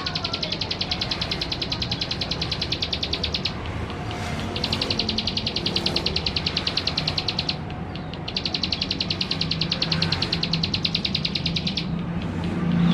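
Male plain prinia (ciblek sawah) singing: three long, rapid ticking trills of about three seconds each, with short pauses between them and a fourth trill starting near the end. A steady low hum runs underneath.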